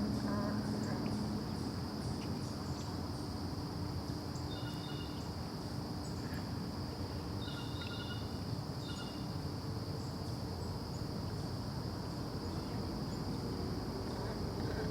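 A steady high insect drone, with a few short high bird chirps about five seconds in and again around eight to nine seconds in, over low outdoor background noise.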